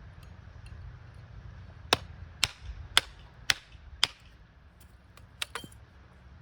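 Five sharp hammer strikes about half a second apart, followed a second later by two lighter knocks.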